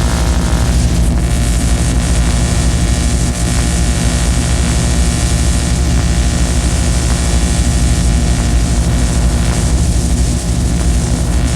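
Loud noise-music drone: a dense stack of steady low hums under a constant wash of hiss, unchanging throughout.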